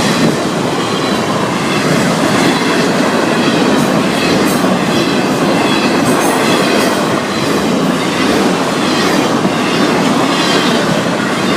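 Florida East Coast freight train's intermodal cars rolling past at close range: a steady, loud rumble and clatter of steel wheels on rail, with faint high-pitched wheel squeal running through it.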